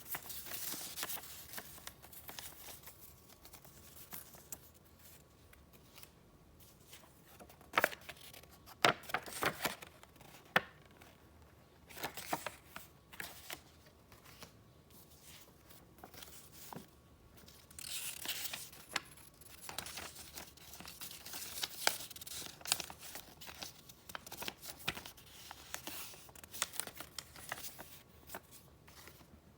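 Paper and packaging handled by hand: irregular rustling, crinkling and tearing, with a cluster of sharp clicks about a third of the way in and louder crinkly bursts past the middle.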